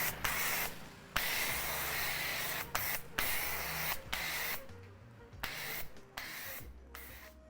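Pressure washer with a foam cannon spraying: a loud hiss that cuts off and restarts several times, with short quiet gaps between runs.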